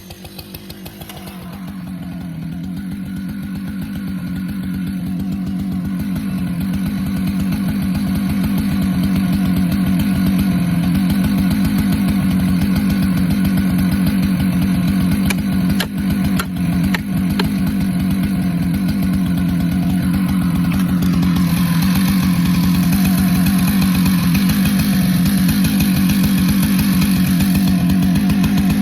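Husqvarna chainsaw running at steady high revs, noodling a large pecan round along the grain. It grows louder over the first several seconds, dips briefly twice about halfway through, and takes on more hiss in the last third.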